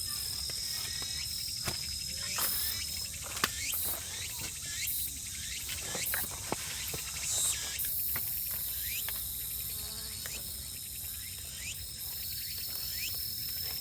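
Insects chirring steadily in a high, continuous trill, with scattered short clicks and pops and a few brief rising chirps.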